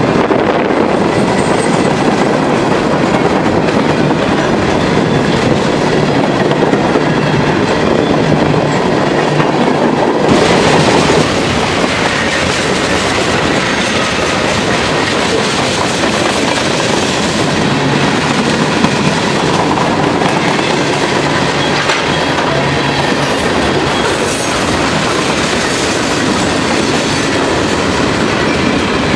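CSX mixed freight train's cars rolling past close by: a steady, loud clatter of steel wheels over rail joints. The sound turns brighter and hissier about ten seconds in.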